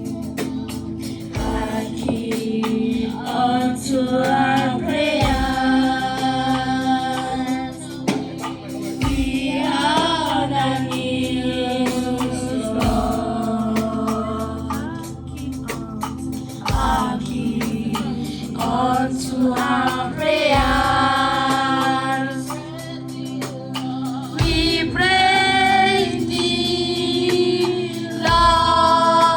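Gospel song: a woman's voice and a choir singing over sustained keyboard chords, with a low drum beat about every four seconds.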